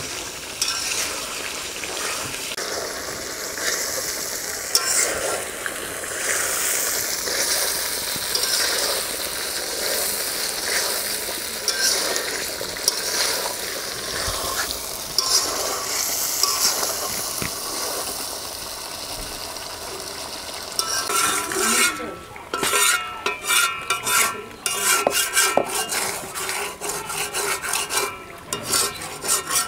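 Spiced chicken sizzling in a large metal karahi while a metal spatula stirs and scrapes through it, at the kosha stage of dry-frying the meat in its masala. After about twenty seconds the sizzle drops back and the spatula's separate scrapes and clinks against the pan stand out.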